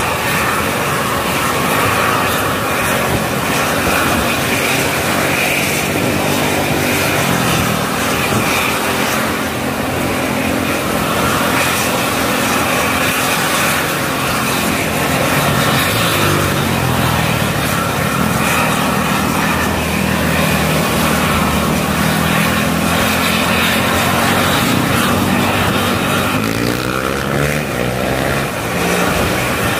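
An engine running continuously, its pitch drifting slowly up and down and rising near the end.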